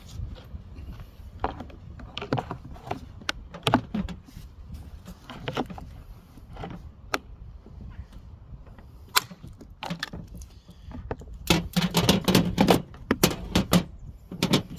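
Pry bar and hand working a GM HVAC blend door actuator loose, giving scattered sharp plastic-and-metal clicks and knocks, with a dense run of clatter about twelve seconds in.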